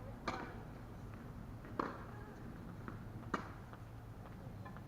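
Tennis ball being struck back and forth with rackets in a rally: three sharp hits about a second and a half apart, with fainter ticks of the ball bouncing between them.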